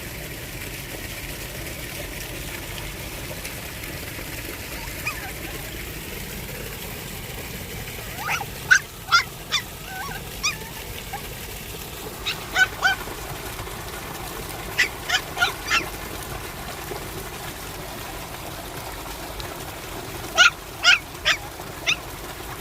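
Short, pitched animal calls in four clusters of three to five, over a steady background hiss.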